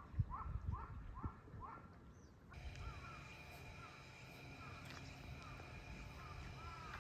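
Repeated short animal calls: first a quick run of rising chirps, about three a second, with a few low knocks; then, after an abrupt change of background about two and a half seconds in, a steady high insect-like drone with several separate arching calls.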